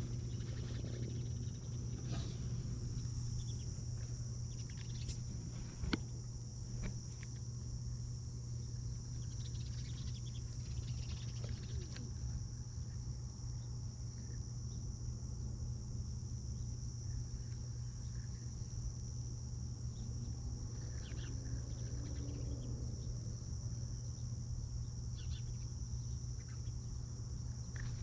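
Insects giving one unbroken high-pitched drone, over a steady low hum, with a single sharp click about six seconds in.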